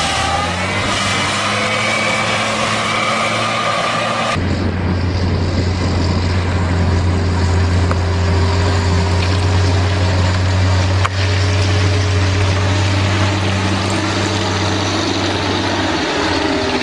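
Heavy farm machinery engine running steadily under a steady low hum, with an abrupt change to a different engine sound about four seconds in.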